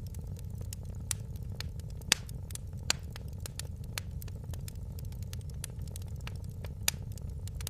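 Wood fire burning with a steady low rumble and irregular sharp crackles and pops, the loudest pops about two, three and seven seconds in.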